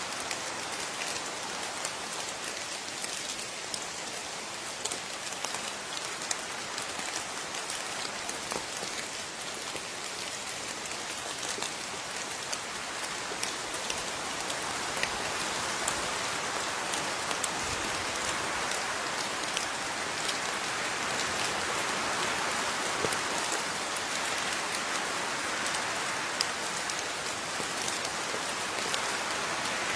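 Steady rainfall with many individual drops pattering on a surface, gradually getting a little heavier over the second half.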